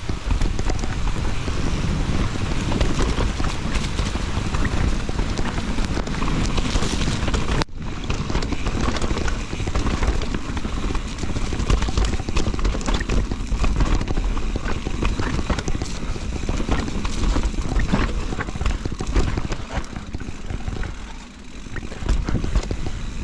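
Mountain bike ridden fast down a dirt trail: wind buffeting the camera microphone, with tyres on the ground and the bike rattling over bumps. The sound cuts out for an instant about a third of the way in.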